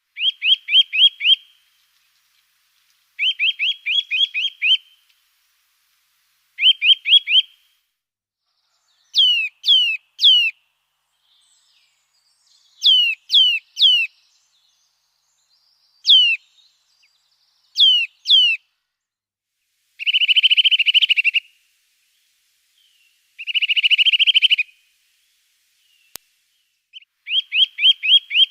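Songbird singing in short, well-spaced phrases. Quick series of four to six short rising whistles alternate with pairs and triplets of clear falling whistles, and two rapid trills come about two-thirds of the way through.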